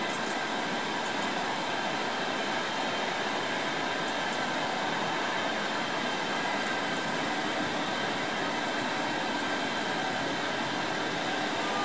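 Steady train noise: an even rushing hum with several faint held tones, unchanging in level throughout.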